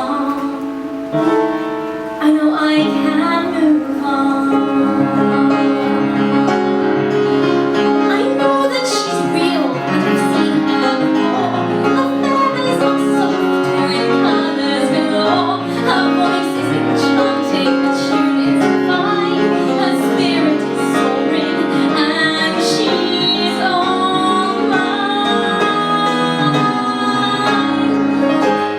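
A woman singing a musical-theatre song in sustained, gliding phrases over piano accompaniment.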